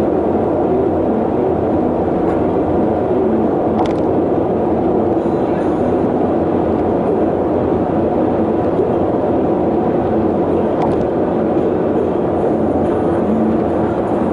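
Steady engine and road noise of a moving vehicle, holding an even level throughout, with a few faint ticks.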